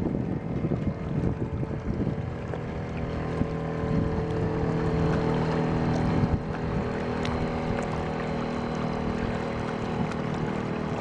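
Coleman 2.6 hp outboard motor running at a steady speed, pushing a canoe, with wind buffeting the microphone, strongest in the first couple of seconds.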